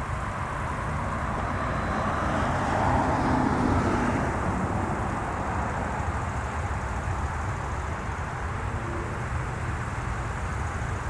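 Jet airliner engine noise, a rumble that swells to its loudest about three to four seconds in and then settles to a steady level, from one of the three-engined jets.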